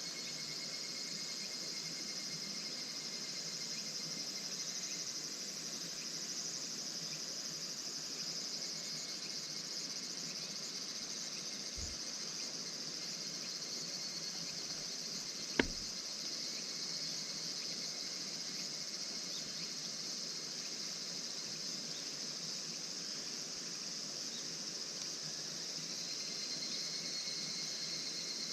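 Steady high-pitched chorus of night insects chirring, with a single sharp snap a little past halfway.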